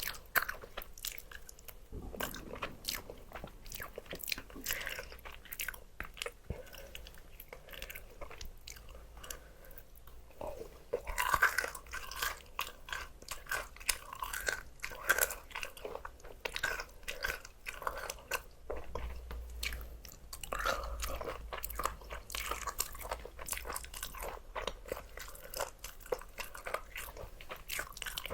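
Close-miked eating: crispy fried chicken being bitten and chewed, with crunching that comes in irregular bursts, loudest in a few heavy bites.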